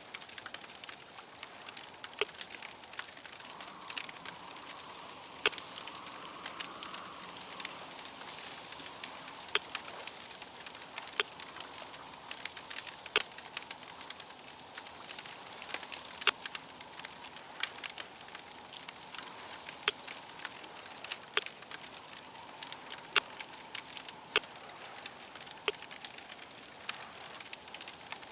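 Crackling fire: a steady hiss with frequent irregular sharp pops and snaps.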